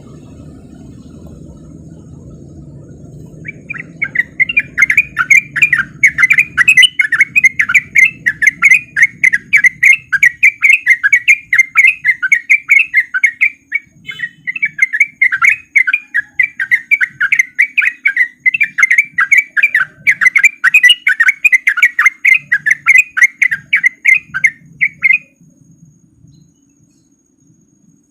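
Sooty-headed bulbul (trucuk) singing its fast rolling 'ropel' song: a long, unbroken run of quick, loud, chattering notes that starts a few seconds in, breaks briefly about halfway, and stops a few seconds before the end. A faint low rumble comes before the song starts.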